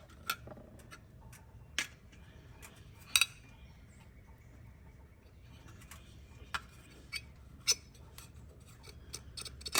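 Hand tools clicking and clinking against the metal housing of a Porsche 996 secondary air injection pump as it is pried apart with a wrench and flathead screwdriver: scattered sharp clicks, the loudest about three seconds in, over a low steady hum.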